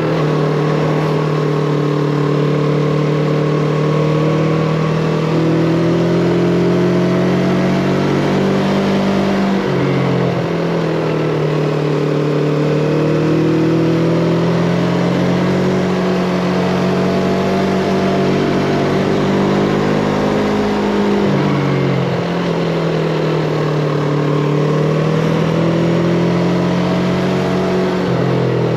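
Yamaha MT-25's parallel-twin engine running under way, its pitch rising and falling with the throttle, with clear drops about ten and twenty-one seconds in, over steady wind and road rush.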